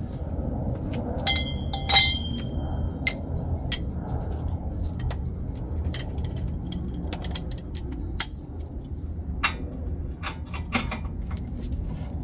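Steel hand tools and the threaded bearing-press tool clinking and ringing as they are handled and knocked together: a few sharp metallic clinks in the first three seconds, one with a ringing tone, then scattered lighter clicks, over a steady low rumble.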